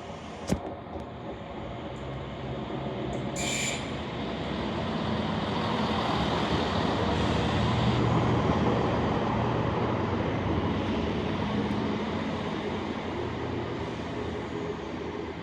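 A train moving through the station: its rumble and engine note build to a peak about halfway through and then slowly fade. A sharp click comes near the start, and a brief high-pitched squeal about three and a half seconds in.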